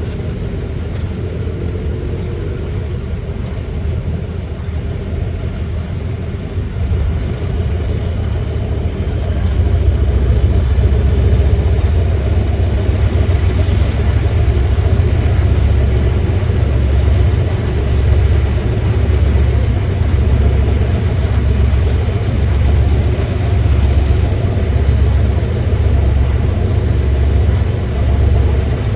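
Large diesel-electric locomotive engine running with a deep rumble that builds about a third of the way in as the engine is worked harder, then holds with a steady low pulsing.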